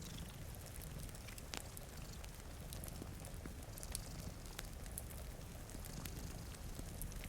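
Wood fire crackling with scattered sharp pops, over steady rain and a continuous low rumble of cat purring.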